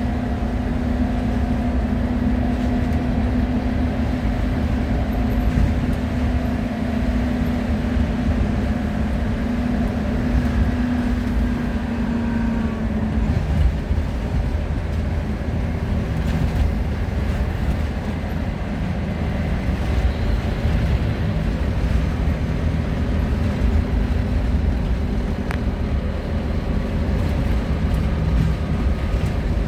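Wright Solar Rural single-deck bus on a Scania chassis under way, its diesel engine and road noise rumbling steadily through the passenger cabin. A steady drone in the engine note stops about halfway through.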